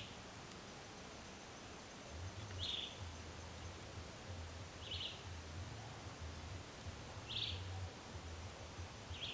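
A bird giving a short, high call, repeated about every two and a half seconds, over faint forest ambience.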